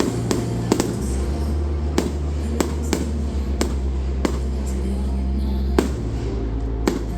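Fireworks going off as sharp bangs, about nine in seven seconds at uneven spacing, over steady music with a strong bass line.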